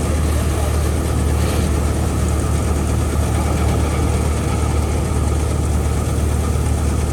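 An engine running steadily at a constant speed with a deep, even hum.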